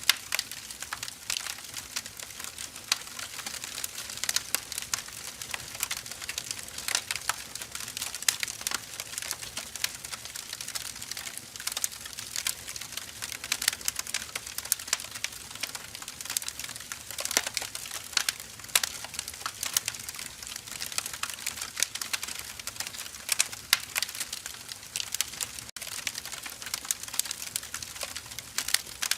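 Firewood burning, with many irregular crackles and small pops over a soft hiss.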